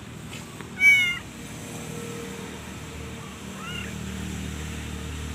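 Calico cat meowing: one loud meow about a second in and a fainter one past the middle. A low steady hum comes in at about the same time as the second meow.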